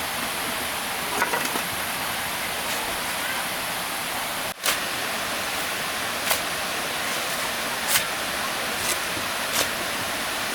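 Steady rush of flowing stream water, with a few sharp knocks scattered through it and a brief dropout about halfway.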